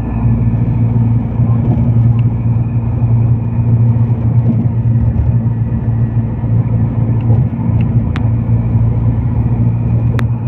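Road vehicle travelling along a highway: a steady low drone of engine and road noise, with two short clicks near the end.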